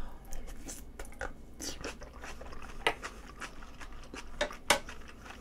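A mouthful of food being chewed close to a microphone: irregular wet mouth clicks, the sharpest about three seconds in and again near the end.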